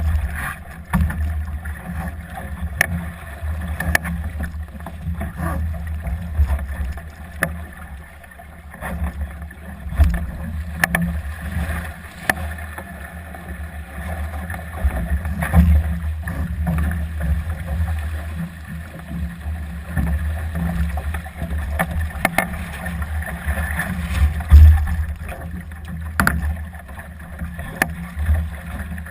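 Solo sailing dinghy under way in strong gusty wind: wind buffeting the microphone in a heavy rumble that swells and fades with the gusts, over water rushing past the hull, with scattered sharp clicks and knocks throughout.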